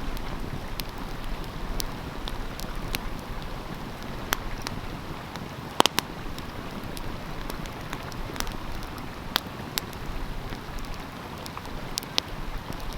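Wood fire crackling, with sharp irregular pops, the loudest a close pair about six seconds in, over the steady rush of a stream.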